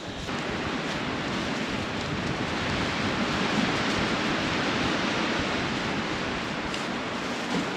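Snowstorm wind blowing steadily, swelling a little in the middle.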